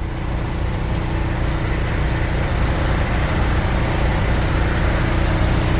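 Semi truck's diesel engine idling steadily, a low rumble with a constant hum.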